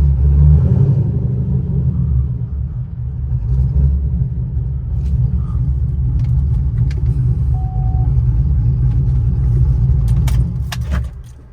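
Chevrolet Camaro SS V8 idling with a steady low rumble, then switched off about ten seconds in, with a few clicks as it stops.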